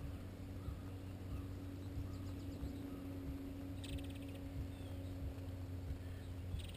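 Steady low outdoor hum with a bird's short, rapidly pulsed high trill about four seconds in and again at the end.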